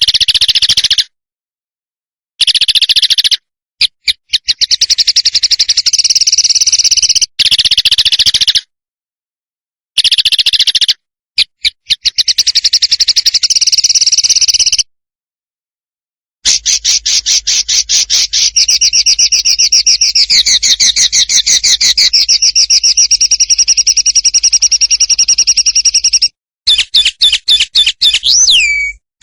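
Songbird song-tutor recording: fast, rattling trills of rapidly repeated high notes (besetan), in bursts broken by abrupt cuts to silence, with one long unbroken trill in the second half. Just before the end comes a single sharp downward-sweeping whistle.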